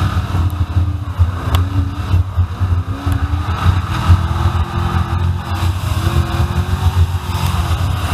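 Drift car's engine running hard on track, its pitch rising and falling several times as it accelerates and backs off, picked up from outside the car on the bonnet with heavy low buffeting over it.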